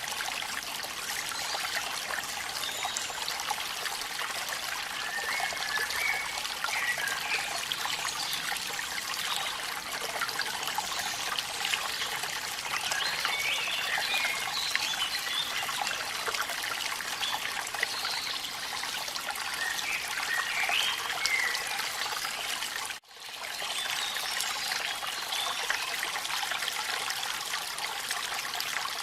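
Steady rain and falling water, a dense hiss with little low rumble, with faint wavering chirps over it. The sound cuts out for a moment about 23 seconds in, then returns.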